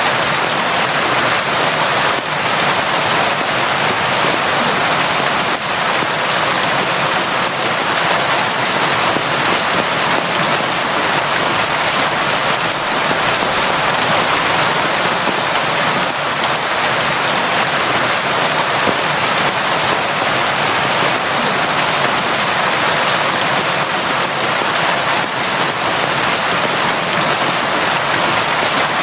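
Steady, heavy rain falling without a break: a constant dense hiss of drops on surfaces.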